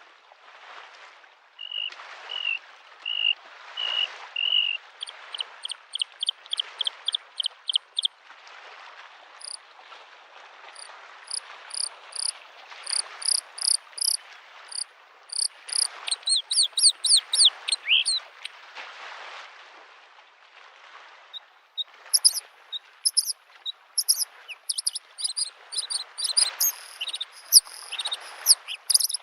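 Bluethroat singing: a few evenly repeated ringing notes that give way to fast, high trills and ticking phrases, pausing in the middle and starting again near the end. Under it, small lake waves lap the shore in soft swells every second or two.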